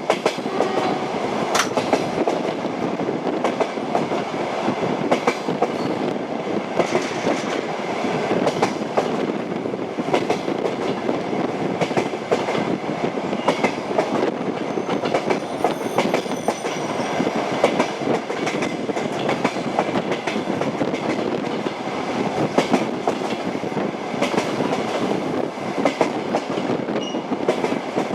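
Train wheels clacking over rail joints on a moving train, with a steady run of sharp clicks over a continuous rumble.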